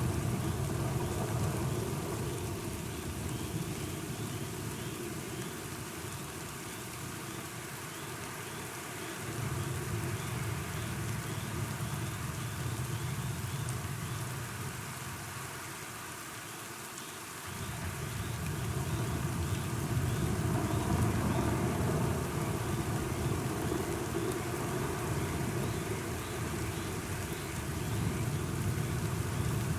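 Steady rain hiss with deep thunder rumbling underneath. The rumble fades, swells back about nine seconds in, dies down, and builds again from about seventeen seconds.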